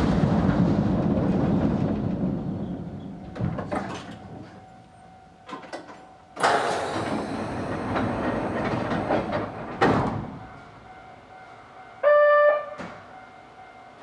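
Narrow-gauge electric train's running rumble fading away as it slows, followed by a few clicks and a sudden hiss of air lasting a few seconds that ends with a click. Near the end a short buzzer-like tone sounds once.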